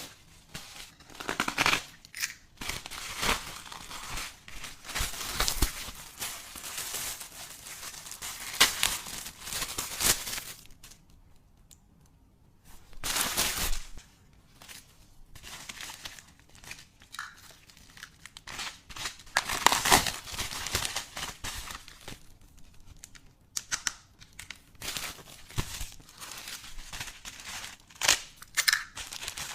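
Packaging being unwrapped: irregular bursts of crinkling and tearing, with a couple of short pauses.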